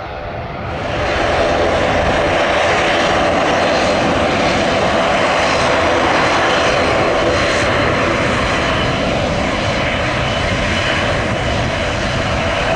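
Airliner engines running loud and steady, the sound swelling about a second in and then holding.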